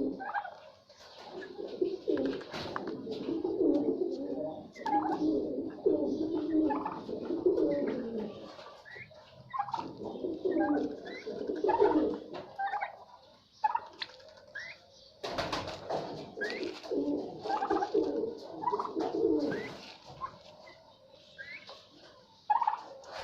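Several birds cooing together in low, warbling calls that overlap almost without a break, with short rising squeaks among them and a brief rustle of movement or wing-flapping about two-thirds of the way through.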